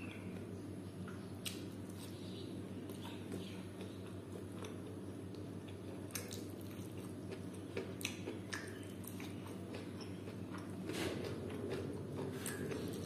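A person chewing and biting food held up to the mouth, pork and bamboo shoot, with scattered short wet clicks and crackles of eating over a steady low hum.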